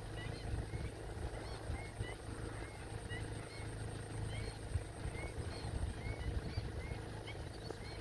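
Short chirping bird calls repeated about every half second over a steady low rumble.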